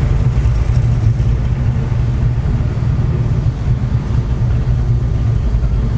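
Muscle car engine running steadily under way with road noise: a loud, steady low rumble.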